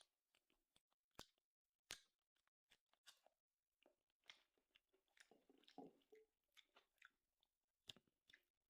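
Faint close-up chewing of tomahawk steak: soft, irregular wet mouth sounds and smacks, with a few sharper clicks.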